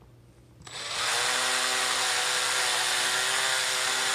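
Electric drill spinning an engine valve against 1500-grit sandpaper to polish it: the drill starts up just under a second in, speeds up quickly and then runs steadily with an even motor whine and hiss.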